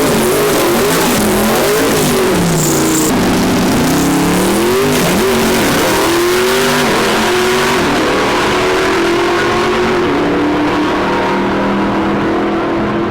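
Car engine revving up and down several times, then rising and holding at high revs.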